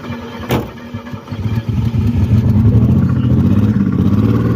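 Chevrolet car engine running roughly, with a sharp pop about half a second in. From about a second and a half it revs up and is held at high revs, running loud and uneven, on a car that has been stalling.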